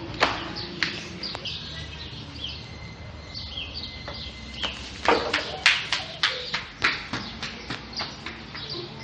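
Birds chirping in short repeated calls. From about five seconds in, a steady run of sharp knocks joins them, two to three a second.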